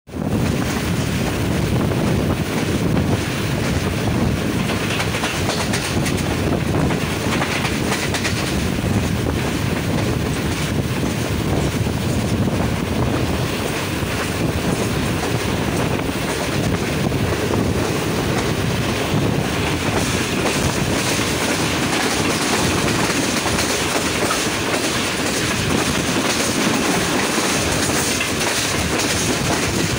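Passenger train running at speed, its steel wheels rolling over the rails in a steady rumble and clatter, heard from the side of a coach with the train moving.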